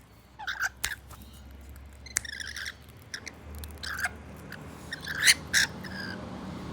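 Parrots squawking: a string of short, harsh screeches, the loudest about five seconds in.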